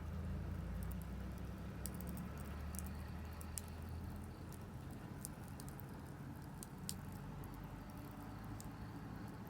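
Wood campfire crackling, with scattered sharp irregular pops, over a low steady hum that fades about halfway through.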